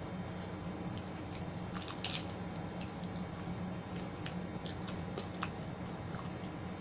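A person chewing and biting food close to the microphone, making scattered sharp clicks with a louder cluster about two seconds in, over a steady low hum.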